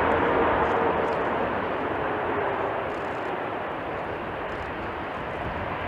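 Jet airliner engine noise: a steady rushing roar that slowly fades, with a faint tone that dies away in the first second or so.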